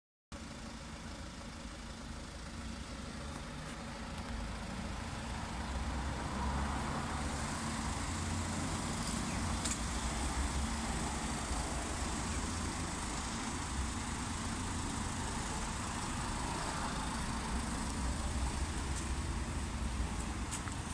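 Ford Focus ST 2.0 TDCi four-cylinder diesel engine idling steadily under outdoor noise, growing louder about six seconds in.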